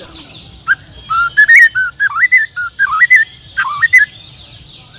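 Caged white-rumped shama (murai batu) singing a run of loud, varied whistled phrases for about three seconds, over a steady chorus of many other caged songbirds chirping high and fast.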